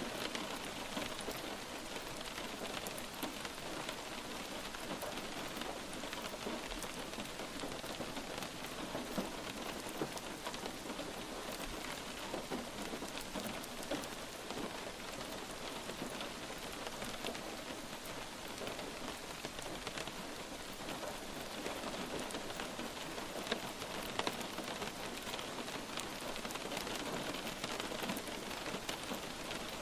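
Steady light rain falling on a surface: an even hiss with individual drops ticking, a few drops louder than the rest.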